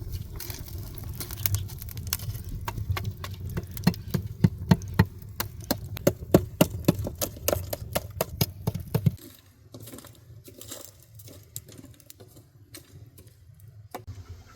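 Rapid, irregular sharp clicks and knocks over a low rumble, which drop away suddenly about nine seconds in to a quieter stretch with only scattered clicks.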